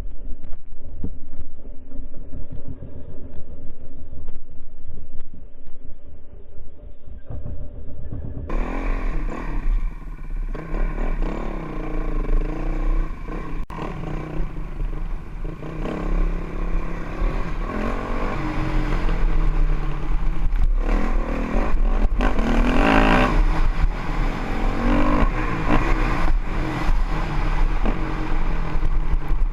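Honda CRF450X single-cylinder four-stroke dirt bike engine revving hard and easing off over and over, its pitch rising and falling as it is ridden, over a heavy low rumble. About eight seconds in the sound changes abruptly to a fuller, brighter recording.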